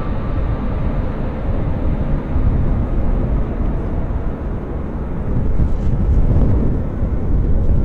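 Deep, steady rumble of a Boeing C-17 Globemaster III's four turbofan jet engines as the aircraft flies low, growing louder past the middle.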